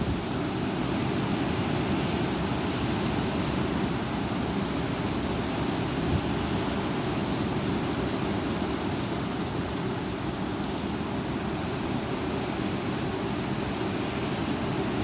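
Strong wind blowing and rushing against the microphone: a steady, unbroken roar, heaviest in the low range.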